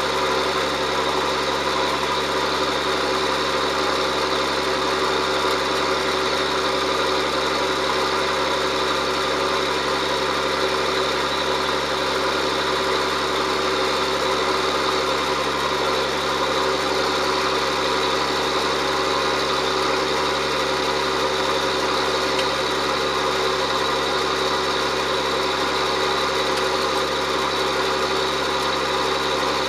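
John Deere 7710 tractor's six-cylinder diesel engine running steadily while pulling a plough, with a constant drone and whine that hold unchanged throughout.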